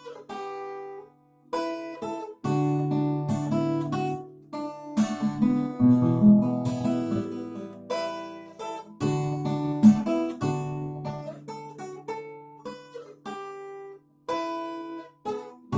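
Acoustic guitar played fingerstyle: a plucked melody over bass notes and chords, with two brief breaks, about a second in and near the end.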